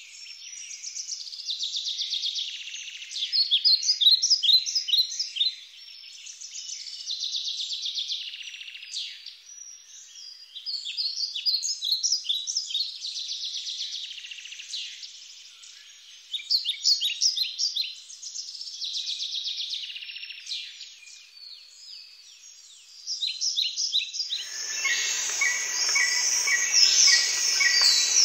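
Birds chirping and trilling in repeated bursts of quick high calls. Near the end, a steadier buzzing noise with regular ticks joins in.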